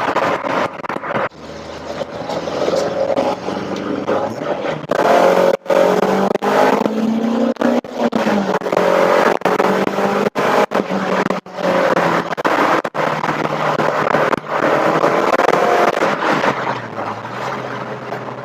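Rover Metro's 1.8 VVC K-series four-cylinder engine pulling hard, heard from inside the cabin, with the revs climbing under load and then easing off. The driver takes this for slip of the brand-new stage 2 clutch in fourth gear. The recording breaks up in many brief dropouts.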